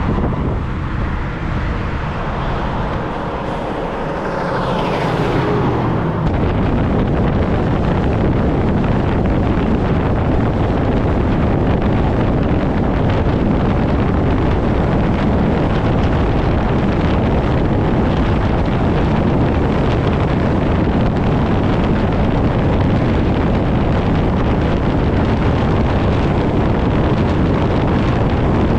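Vehicle noise: a pitch that slides up and down in the first few seconds, then a steady, loud rush of road and wind noise from about six seconds in.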